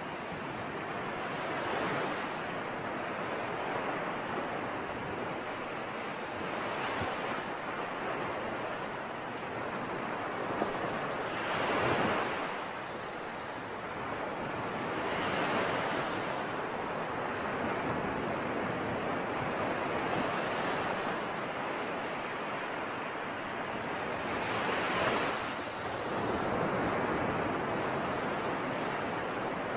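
Sea waves breaking and washing on the shore: a continuous rushing sound with surges every few seconds, strongest about twelve and twenty-five seconds in.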